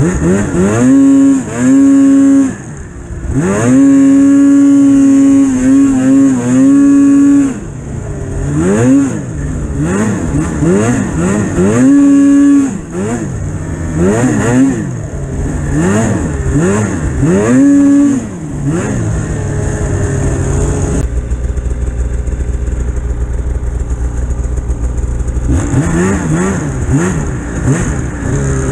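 Polaris Pro RMK 800 snowmobile's two-stroke engine being revved up and down over and over, with several held high-rev pulls. About three-quarters of the way in it settles to a steady low drone for a few seconds, then the revving starts again.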